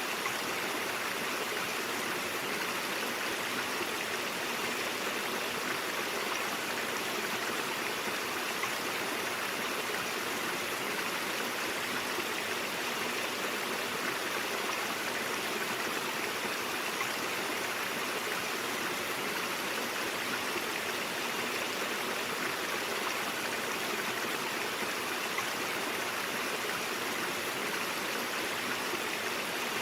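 Stream water flowing over rocks, a steady even rush and babble.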